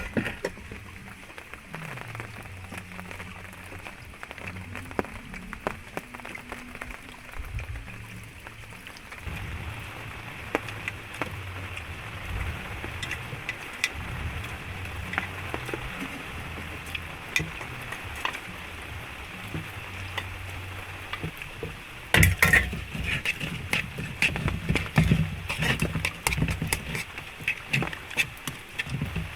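Steady rain falling, with scattered drips and taps. From about two-thirds of the way through, louder irregular knocks and crackles join in.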